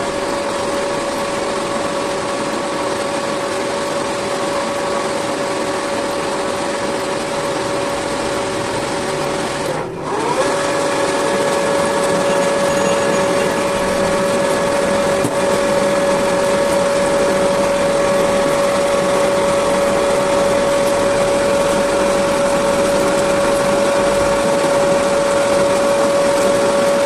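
Metal lathe running steadily with a constant motor whine. The sound dips briefly about ten seconds in, then the same whine carries on.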